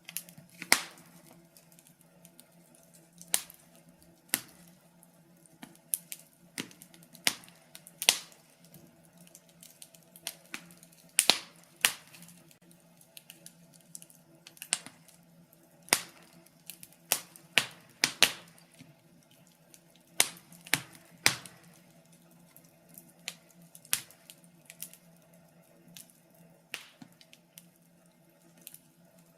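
Wood fire crackling in a fireplace: irregular sharp pops and snaps of burning logs, several loud ones close together, over a faint steady low hiss.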